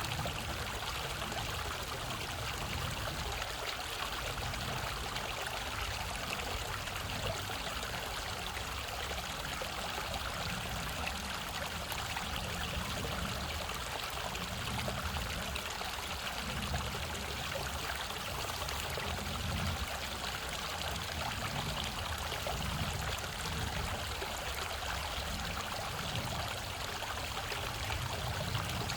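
Mountain stream flowing steadily, water running and trickling over rocks.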